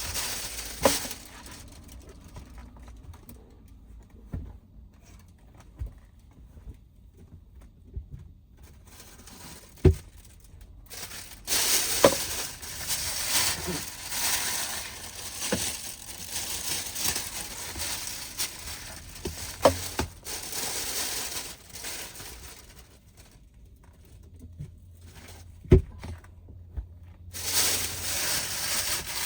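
Crinkling and rustling with scattered sharp knocks, as of things being handled in a van's cabin, with two long stretches of steady rain hiss that start and stop abruptly.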